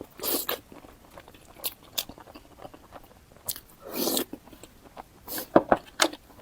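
Close-miked eating: a person biting and chewing, with irregular crunches and sharp clicks. A longer crunch about four seconds in, and a few loud sharp clicks near the end.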